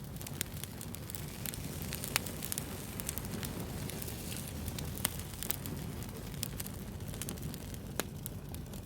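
Wood campfire burning: a steady low rumble of flame with irregular crackles and sharp pops, a few pops louder than the rest.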